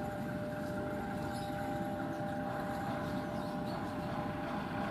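A train passing close by: a steady rumble with a constant high whine.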